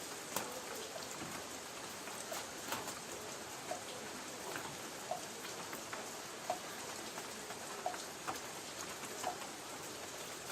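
Light rain on a tin roof: a steady patter with individual drops ticking and plinking sharply on the metal.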